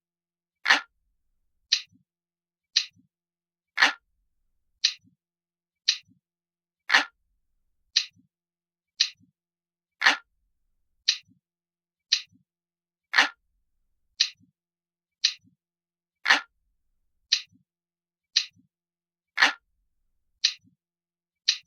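Clock ticking steadily, about one tick a second. Every third tick is louder and fuller.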